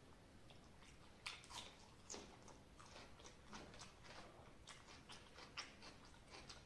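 Faint close-up eating sounds: a man chewing mouthfuls of rice eaten by hand, with irregular wet mouth clicks and smacks, a few sharper than the rest.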